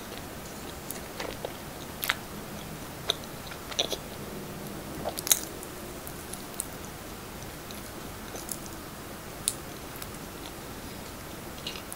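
Biting into and chewing a soft siopao asado (steamed pork bun), with scattered wet mouth clicks and smacks; the loudest comes about five seconds in.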